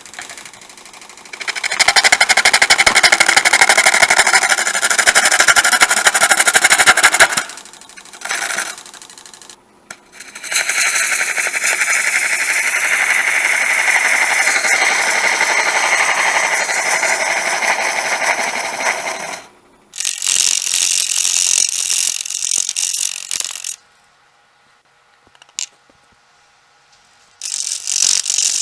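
Turning tool cutting into a spinning, out-of-round sweet gum log with the bark on, squaring the end on a wood lathe: loud, rough chattering cuts in long stretches with short breaks. The cutting stops for a few seconds near the end, then starts again.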